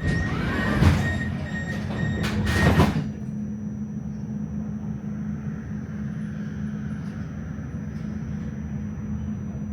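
Tram door warning beeps and doors sliding shut with a few knocks over the first three seconds, then the steady hum of the tram's interior.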